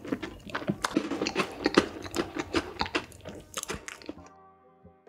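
Close-miked mukbang chewing of a big mouthful of chocolate cake dessert, a dense run of irregular mouth clicks and smacks. About four seconds in the chewing stops and faint music with held notes comes in.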